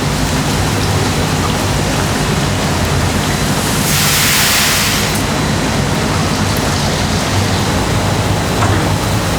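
Steady, loud factory machinery noise with a low hum underneath. A hiss swells for about a second around four seconds in.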